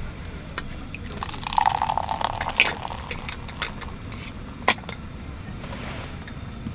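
A drink being poured into a cup, splashing for about two seconds, then a single sharp knock a little before five seconds in.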